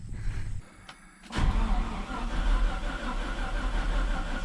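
Engine of a 2-ton grain truck, coming in suddenly about a second and a half in after a brief quiet, then running steadily.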